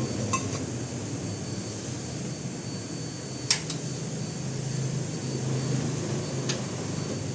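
A steady low mechanical hum, with three short sharp clicks, the loudest about three and a half seconds in.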